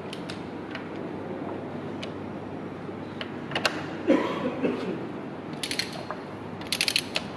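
Hand ratchet pipe threader working a thread onto galvanised iron pipe: scattered metallic clicks, a louder knock about four seconds in, and two short, quick ratcheting rattles near the end.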